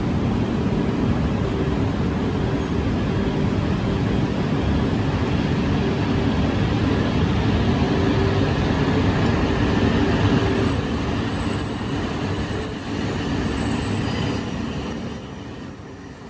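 Shinkansen train running, a loud rumble with a steady low hum that fades away over the last few seconds.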